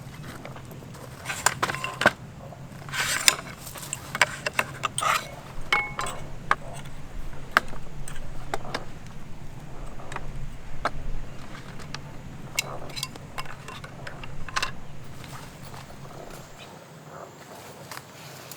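Irregular clicks, clinks and knocks of objects being handled, over a steady low hum that fades near the end.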